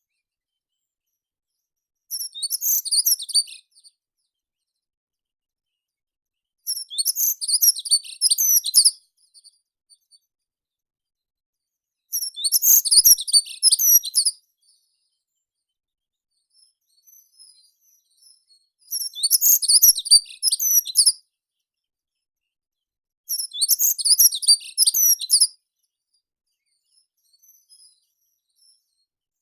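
A meadow songbird singing five high-pitched song phrases, each about two seconds of rapid twittering notes, separated by pauses of a few seconds.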